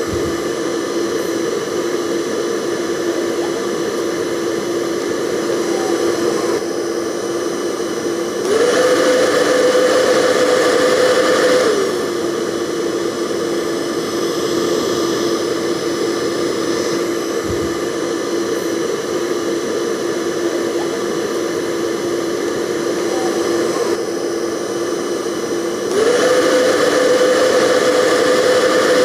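Hair dryer running with a steady whir and airy hiss. Twice the motor speeds up, its hum rising in pitch and the sound getting louder for about three seconds before settling back.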